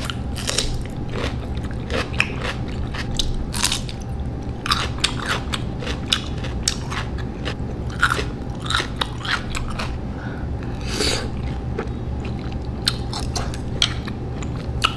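Close-up eating sounds of a person chewing saucy Samyang noodles: irregular wet smacks and mouth clicks, over a steady low hum.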